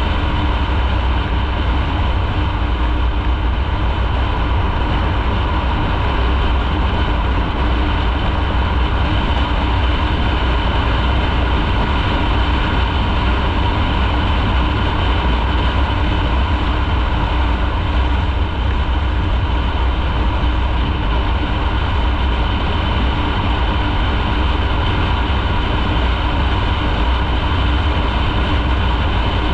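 Motorcycle running at a steady speed, its engine note holding constant, under a heavy low wind rumble on the microphone.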